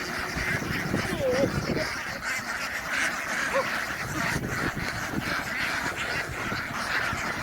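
A large flock of domestic ducks quacking, many calls overlapping into a steady din.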